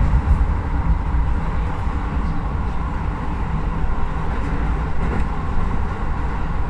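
Keisei 3050-series electric train running at speed, heard from just behind the cab: a steady rumble of the wheels on the rails.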